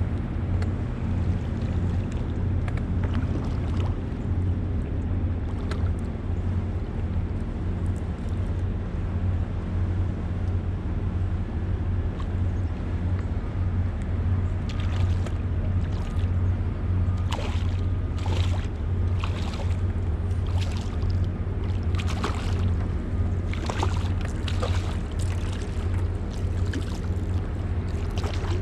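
Boat motor running steadily, a constant low hum, with short splashes of water against the hull coming more often in the second half.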